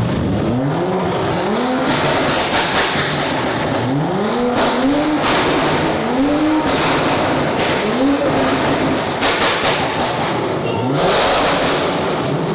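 Car engines revving in short blips several times, each rev rising in pitch then dropping back, over a steady rumble of other running engines.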